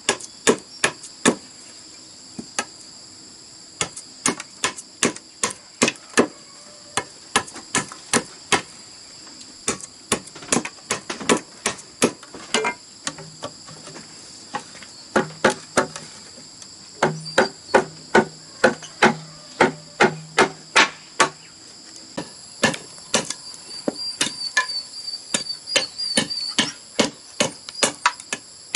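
A hand tool striking bamboo again and again: sharp knocks, two or three a second, with short pauses between runs. Insects keep up a steady high-pitched trill behind.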